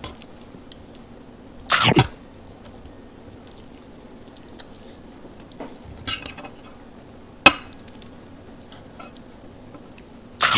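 Eating noises at a meal: a sharp clink of cutlery against a dish midway, chewing, and two short loud noisy sounds about two seconds in and again at the end, over a steady low hum.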